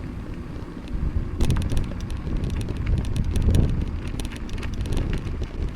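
Wind rumbling over the microphone of a mountain bike being ridden along a street. From about a second and a half in, the bike adds a scatter of sharp ticks and rattles.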